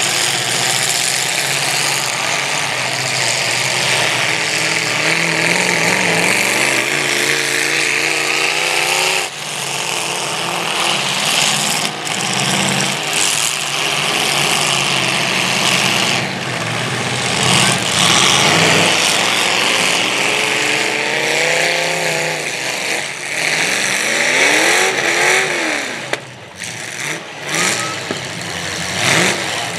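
Several demolition derby cars' engines running and revving, with the pitch rising and falling again and again.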